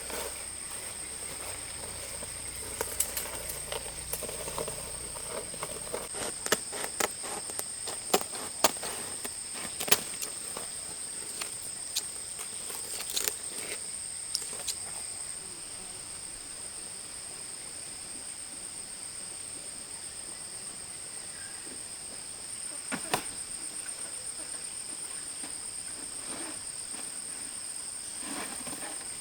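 Insects chirring steadily in a high, even drone, with scattered sharp clicks and knocks, thickest through the first half and one more louder knock later on.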